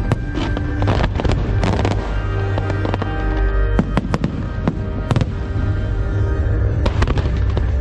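Fireworks show: repeated sharp bangs and crackling shell bursts, several a second at times, over loud music with a heavy bass line.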